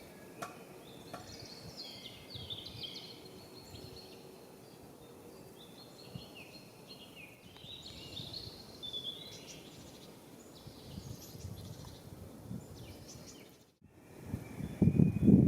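Small birds chirping and singing, many short warbling notes, over faint background noise. Near the end, after a brief drop-out, a louder low noise comes in.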